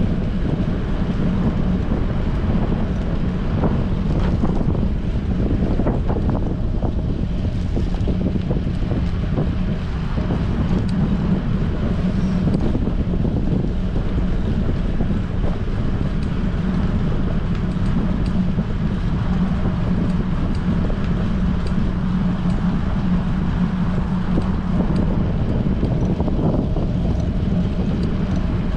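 Strong wind buffeting a handlebar-mounted GoPro's microphone on a moving bicycle, a steady rushing noise with a low drone.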